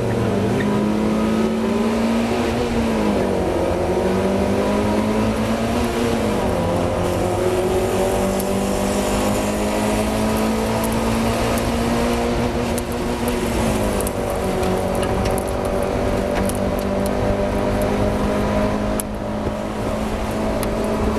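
Mazda MX-5's four-cylinder engine pulling hard under racing load. Its pitch climbs steadily through each gear and drops sharply at each upshift, about three times, over a steady rush of road and wind noise.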